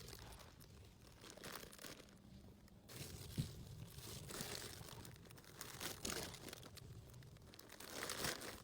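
Plastic packaging crinkling and rustling in irregular handfuls as items are handled and packed, with a sharp tap about three and a half seconds in.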